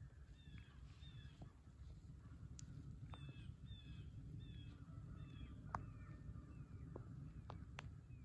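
A bird calling faintly in runs of short calls that fall in pitch, several in a row with brief pauses between runs, over a low steady rumble and a few scattered clicks.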